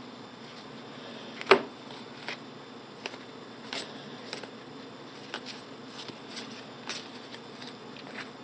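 Trading cards being handled and flipped through one at a time: a series of short card snaps and clicks, one louder about a second and a half in, over a steady low hum.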